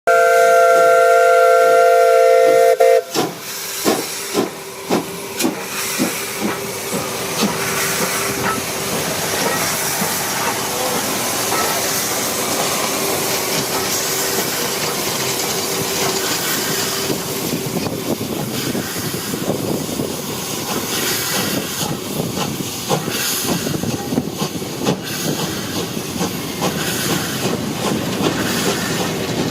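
Steam locomotive sounding its multi-tone chime whistle for about three seconds, then getting under way. Its exhaust chuffs come slowly at first and quicken, merging into continuous chuffing and hiss with the clatter of the train.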